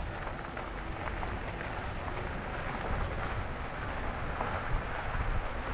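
Wind buffeting the microphone while riding an e-bike along a trail, a steady low rumble mixed with the hiss of tyres rolling over the surface.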